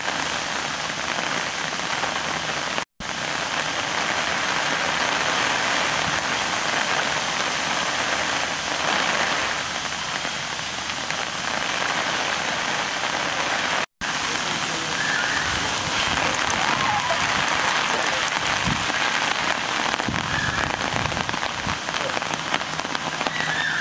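Steady rain falling and pattering on surfaces, an even hiss that cuts out briefly twice, about 3 s and 14 s in.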